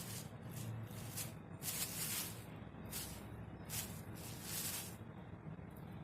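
Kittens at play rustling and crinkling plastic: a run of short, uneven rustling bursts, one every half second to a second.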